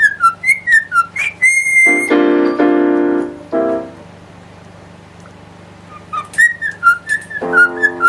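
A parrot whistling a tune in short notes, with one long held whistle about a second and a half in, alongside piano chords. After a quieter stretch in the middle, more whistled notes and another piano chord come near the end.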